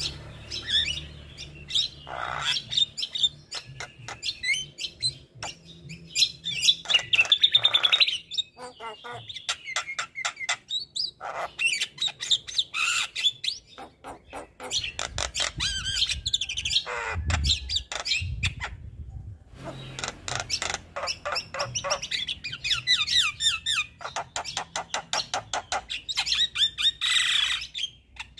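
Male Javan myna (jalak kebo) singing a long, varied chattering song: fast runs of clicks, squawks and whistled notes in phrases with short pauses between them.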